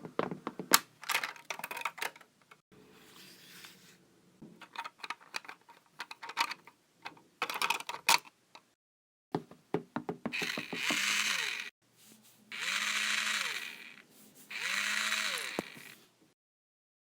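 Building sound effects: a run of quick knocks and taps, as of hammering and bricks being set, then a power drill whirring three times, each run spinning up in pitch and winding back down.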